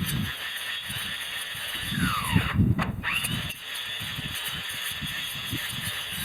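Electric grass trimmer cutting grass, played back sped up. A squeal glides down in pitch about two seconds in.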